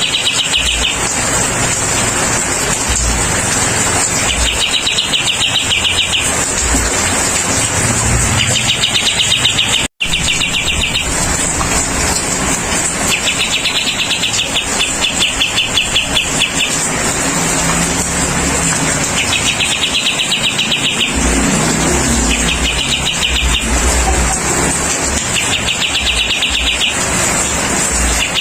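A bird giving repeated trilled calls, each a rapid even rattle lasting one to two seconds, coming back every two to three seconds. Under them runs a steady hiss with a thin high drone. There is a brief break about ten seconds in.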